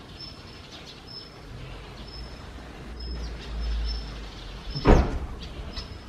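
A bird repeating a thin, high, short call every half second to a second, taken to be the parent Daurian redstart calling near its grounded fledgling. A low rumble comes a little past three seconds in, and a single loud thump comes near the end.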